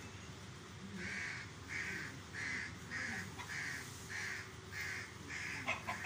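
A bird calling over and over in an even series, about three calls every two seconds, starting about a second in. Near the end a brief burst of sharp clicks sounds over the calls.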